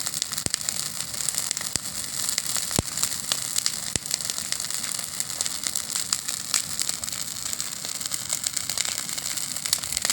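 Campfire burning, the wood crackling steadily with a few sharper snaps.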